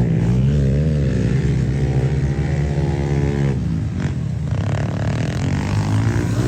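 Pit bike engine running, its pitch rising and falling with the throttle.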